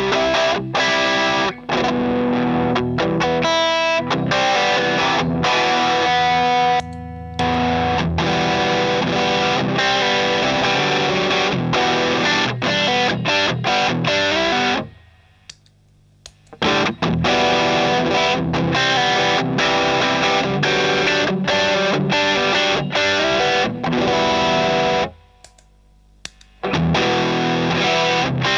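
Electric guitar played through an overdrive pedal, giving a crunchy distorted tone. The playing stops briefly twice, about halfway through and near the end.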